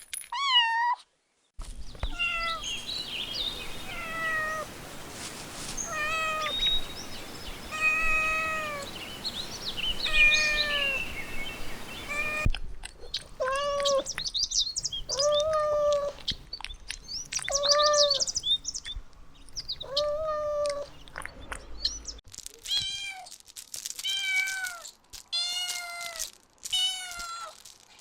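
Puppies crying in a long series of short, high-pitched whimpers, each call rising and falling in pitch, one after another about every half second.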